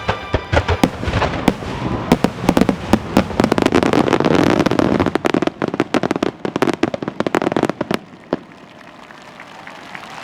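Fireworks finale: a dense run of rapid crackling and bursting shells that builds to its thickest about halfway, then stops fairly suddenly about eight seconds in, leaving a quieter background.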